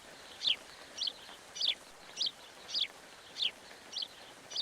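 A small bird chirping over and over: short, high, falling chirps at a steady pace of a little under two a second.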